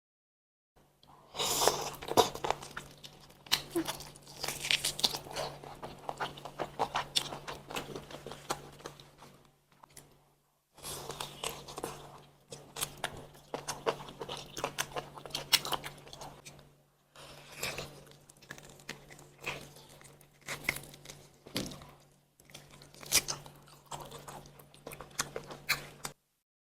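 A person biting and chewing salt-baked chicken up close, with many sharp crackly clicks and irregular chewing. The sound comes in several stretches separated by short dead-silent cuts, over a faint steady hum.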